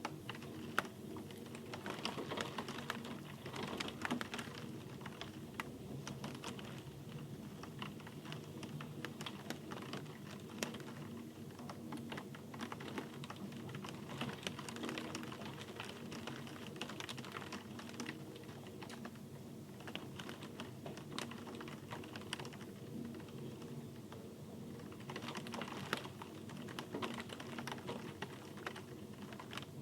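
Rain falling as many separate, irregular taps and drips on a hard surface, over a steady low hum.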